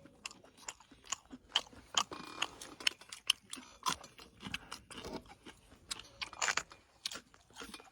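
Close-up chewing: someone eating crisp dandelion greens dipped in chili bean sauce, with irregular crunching bites and mouth noises.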